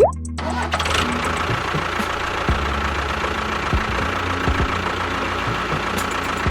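A small motor running steadily with a dense mechanical rattle and occasional low knocks, starting about half a second in as the music stops.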